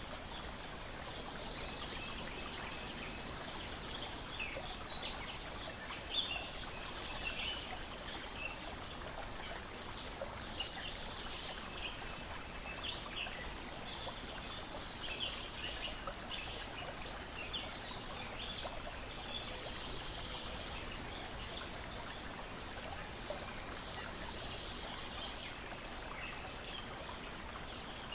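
Water lapping and splashing in a steady wash, with small birds chirping and singing throughout.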